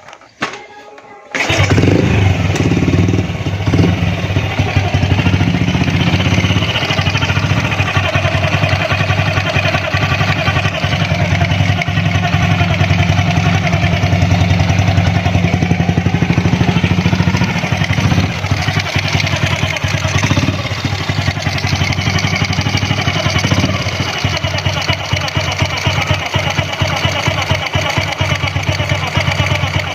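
Honda Astrea Grand motorcycle's single-cylinder four-stroke engine starting about a second and a half in, then idling steadily. Over it runs a strange 'nik nik nik' noise from the magneto (flywheel) cover, like someone crying, which the mechanic suspects is something rubbing or come loose inside.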